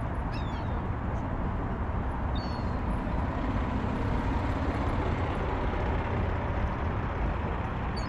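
Steady low outdoor rumble, with two faint, short, high bird chirps about half a second and two and a half seconds in.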